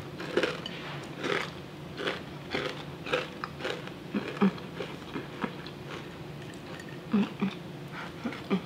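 Close-up crunching and chewing of crispy battered, deep-fried oyster mushrooms made as vegan fried chicken, a sharp crunch about twice a second.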